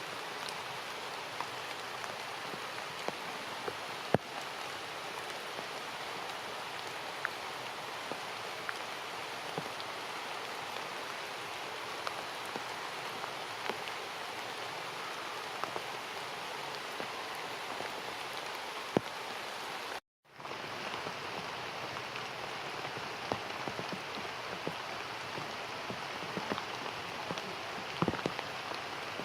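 Steady rain falling, with scattered louder drips ticking on nearby surfaces. The sound cuts out completely for a moment about two-thirds of the way through, then the rain resumes.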